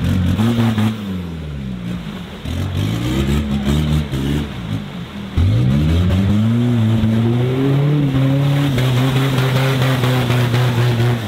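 Lifted Kia Sportage's diesel engine revving hard in deep mud: several short rises and falls in revs, then about five seconds in it jumps to high revs and is held there, climbing slowly. The engine is being driven short of full throttle, because it starved of diesel when floored.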